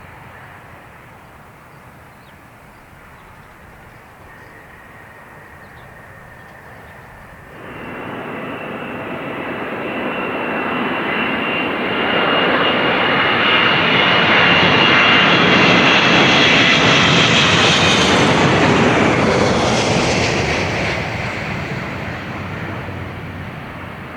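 Jet airliner flying low overhead on final approach: the engine noise comes up sharply about a third of the way in and builds to a loud rush with a high whine. As it passes, the whine drops in pitch and the noise fades.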